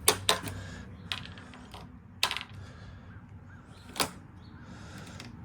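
Metal tape measure being pulled out and handled against a refrigerator: a handful of sharp clicks and short rattles at irregular intervals.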